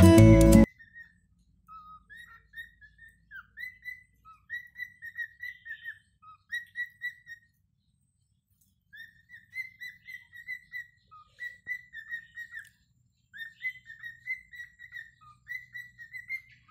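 Cockatiel whistling a string of short notes, many rising at the end, in phrases with a pause about halfway through. Guitar music cuts off within the first second.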